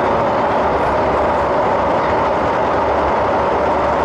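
Steady running noise heard from inside a carriage of an MTR East Rail Line MLR train, a refurbished Metro-Cammell electric multiple unit, while it travels along the line.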